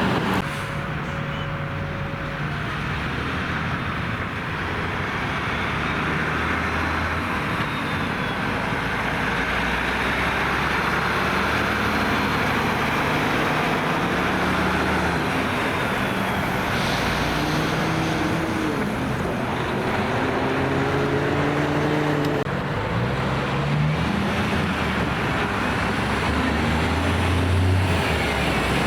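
Road traffic with heavy trucks and cars passing: steady tyre and road noise, with engine notes rising and falling as the vehicles go by and shift. The sound changes abruptly about two-thirds of the way through.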